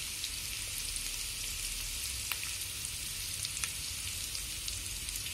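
Pork, potatoes, onions and green peppers sizzling steadily in a frying pan, with a few small pops and crackles.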